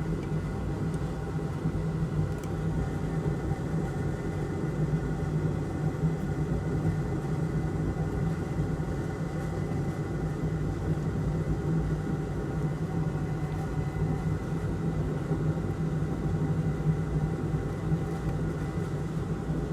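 Electric fan motor on a repair bench running steadily: a constant low hum with a faint higher whine and airy hiss underneath.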